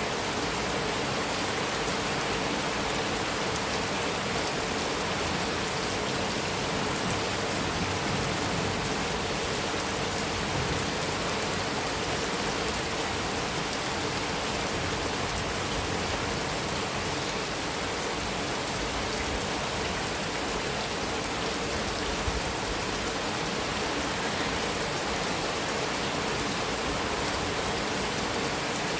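Heavy rain falling steadily on a metal roof.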